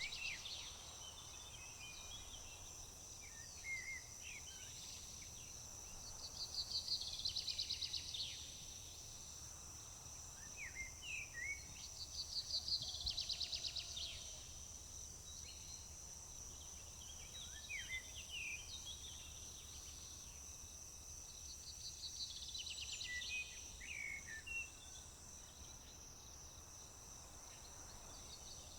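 A steady, high-pitched drone of insects, likely crickets, under several songbirds singing. One bird repeats a fast trilled song about every eight seconds, three times, with shorter chirping notes between.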